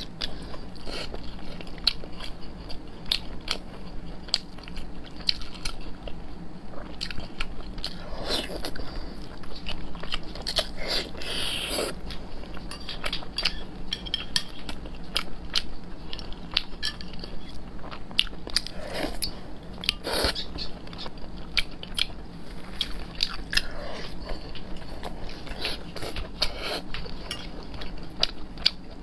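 Close-miked biting and chewing of braised pork belly: a steady run of short, sticky mouth clicks and smacks, with a few longer, louder chewing sounds at about 8, 12, 19 and 20 seconds.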